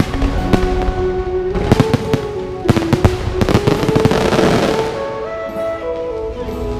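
Fireworks going off in quick, crackling bangs over music with long held notes; the bangs thin out about five seconds in, leaving the music.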